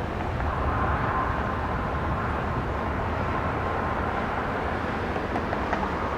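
Jet aircraft engines running at the airport: a steady rumble with a faint high whine that fades out after about four seconds.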